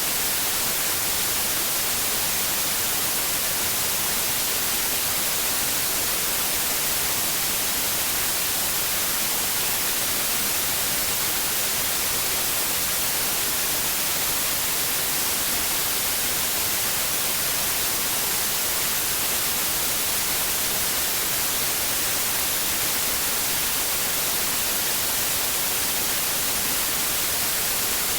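Steady white noise: an even hiss, brighter in the treble than in the bass, that never changes in level.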